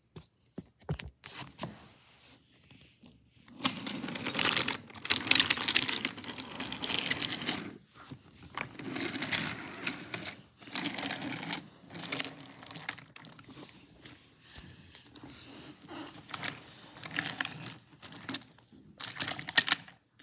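Rustling and clicking of small toys being handled and moved, in irregular bursts that start about three and a half seconds in.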